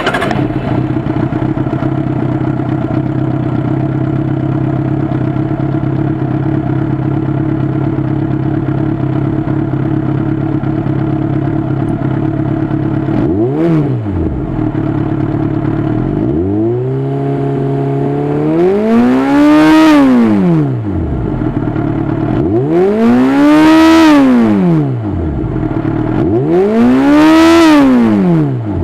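Jaguar XJ6's straight-six engine idling through an aftermarket spiral-piped exhaust with a Powerbomb muffler, then revved four times: a short blip about halfway through, followed by three longer, louder revs that climb and fall back to idle.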